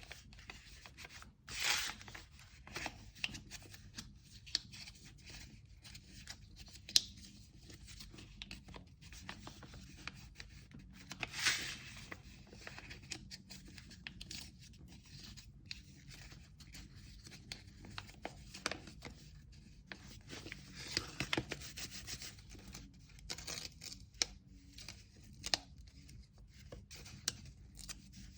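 Hand packing of an order: kraft paper and tape being handled, rustled and torn, with scattered light clicks and taps. The louder tearing bursts come about 2 s and 11 s in.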